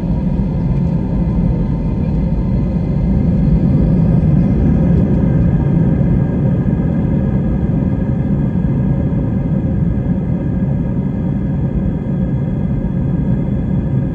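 An airliner's jet engines running, a loud, steady, deep rumble with a faint constant whine above it.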